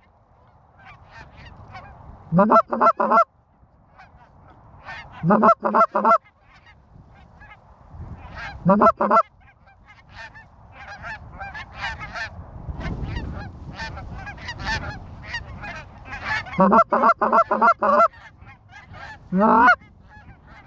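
Canada goose honking and clucking in five loud runs of quick notes, with fainter honks in between.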